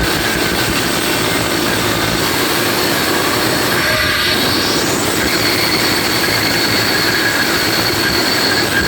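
Very loud, harsh, distorted sound from a DJ sound system being played at full volume: a steady dense roar with thin squealing tones on top and no clear beat.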